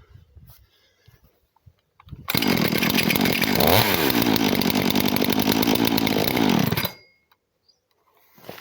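Dolmar PS-460 two-stroke chainsaw engine catching about two seconds in and running loud and steady for about four and a half seconds, with a brief dip in pitch, then cut off abruptly.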